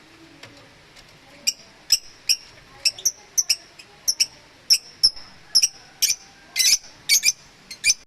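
Lovebirds calling: a quick, irregular series of short, shrill chirps, starting about a second and a half in.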